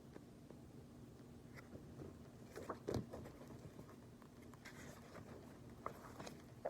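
Soft paper rustling and light taps from a picture book's page being turned and handled, over faint room tone, with a cluster just before the midpoint and a few more near the end.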